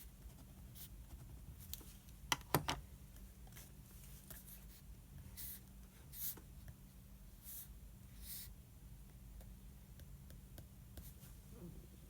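Writing on paper at a desk: short scratchy strokes, faint over a steady low room hum. A quick cluster of sharp clicks about two and a half seconds in is the loudest thing.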